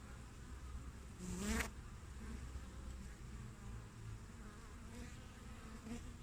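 Honeybees (Apis mellifera) buzzing around a hive entrance. About a second and a half in, one bee flies close past the microphone, and its buzz is briefly louder and rising in pitch.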